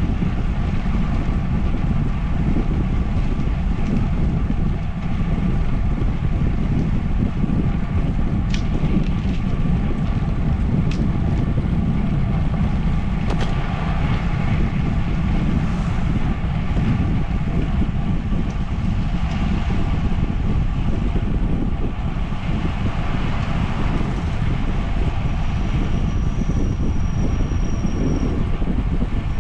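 Steady wind noise buffeting the microphone of a camera on a moving bicycle, a dense low rumble throughout. A thin high whistle lasts about three seconds near the end.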